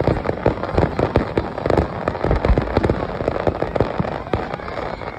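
Fireworks going off in rapid succession: a dense run of sharp bangs and crackling pops, many a second, with heavier low booms among them.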